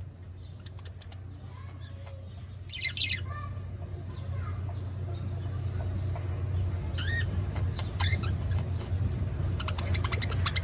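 Caged pet birds giving short chirps and squawks a few seconds apart, over a steady low rumble that slowly grows louder.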